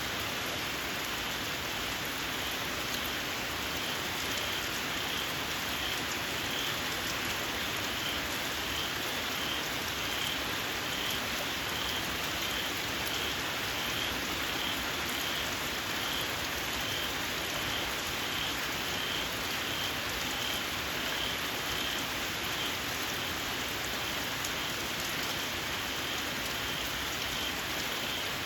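Steady rain falling, with a small frog calling over it: a shrill, high chirp repeated about twice a second.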